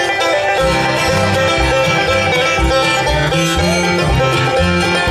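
Bluegrass band playing an instrumental opening, with banjo and guitar picking and a bass joining in about half a second in.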